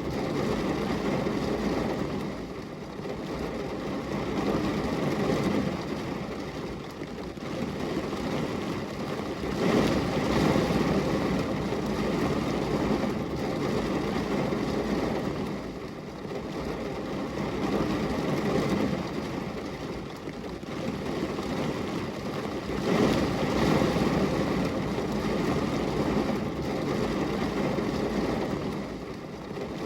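Steady rain: a low, even rushing noise that swells and eases every few seconds.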